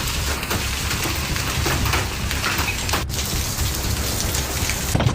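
Heavy rain pouring down: a dense steady hiss full of fine spattering drop hits over a low rumble, breaking off for an instant about three seconds in.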